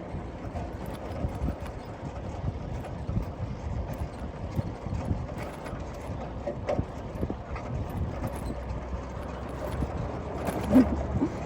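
Irregular light knocks and taps over a steady low rumble, with one brief louder sound near the end.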